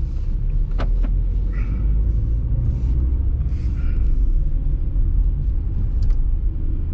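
Low, steady rumble of a car's engine and road noise heard from inside the cabin, with a sharp click about a second in.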